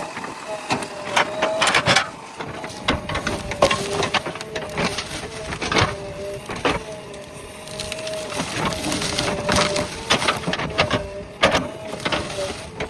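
JCB backhoe loader working, its engine and hydraulics holding a steady whine, with frequent sharp cracks and knocks as it breaks through wood and brush during land clearing.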